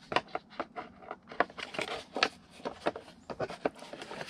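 Heater box and blend door parts clicking, tapping and scraping as they are handled and fitted together: an irregular run of many sharp clicks and taps.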